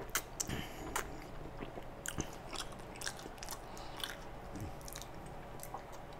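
Close-up chewing of a mouthful of pizza topped with instant noodles: irregular wet mouth smacks and small clicks, busiest in the first couple of seconds, then fewer.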